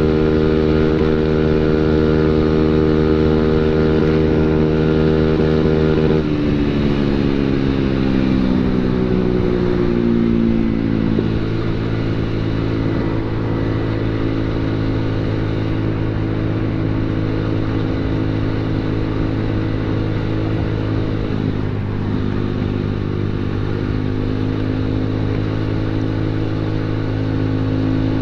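Automatic scooter engine running through an aftermarket CMS-copy quiet exhaust, held at raised revs, then dropping back to idle over a few seconds about six seconds in and idling steadily, with a slight rise in revs near the end.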